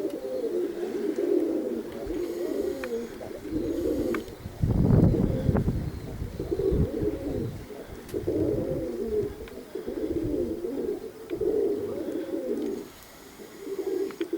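Domestic pigeons cooing, one low warbling coo after another, each about a second long. About five seconds in, a low rumble of wind hits the microphone.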